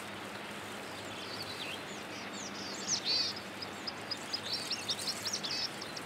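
Small birds chirping: a scatter of short, high chirps, sparse at first and coming thick and fast in the second half, over a faint steady hiss.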